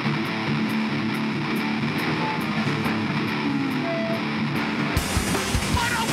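Live hardcore band: a distorted electric guitar riff rings out with only light regular cymbal ticks keeping time, then the drums and full band crash back in about five seconds in.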